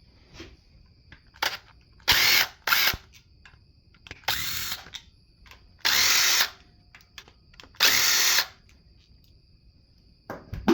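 Hand-held power tool run in about six short bursts of half a second or so each, with short pauses between them.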